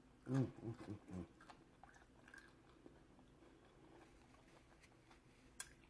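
A person chewing food with soft, wet mouth clicks, with a few short hummed 'mm' sounds about half a second in and a sharper click near the end.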